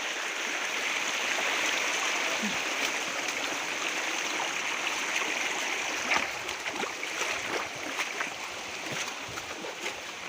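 A stream's water rushing steadily, a constant hiss. About six seconds in it drops a little and a few faint clicks come through.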